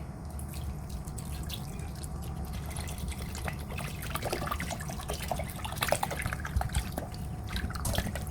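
Water pouring into a cooking pot to cover chicken for boiling, with trickling and uneven small splashes and drips.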